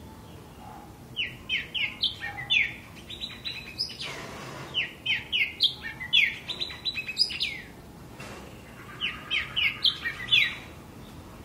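A bird calling in three bouts of quick, repeated downward-sweeping chirps, over a steady low background hum, with a brief hiss about four seconds in.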